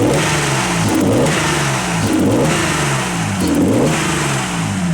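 Naturally aspirated RB25DE straight-six of an R32 Nissan Skyline, fitted with RB26 individual throttle bodies, blipped up from idle four times in quick succession, each rev falling back to idle.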